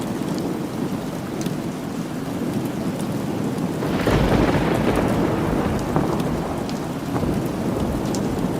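Steady rain with a roll of thunder that swells about four seconds in and slowly fades, over scattered faint sharp ticks.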